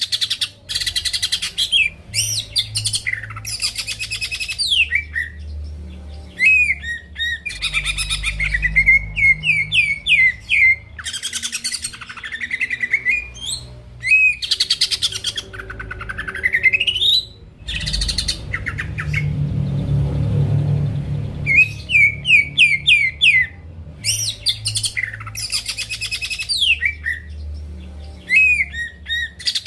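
Cucak ijo (green leafbird) singing loudly in rapid, varied phrases of fast trills and rising whistled glides, one phrase after another. About two-thirds of the way through the song pauses briefly under a low rumble.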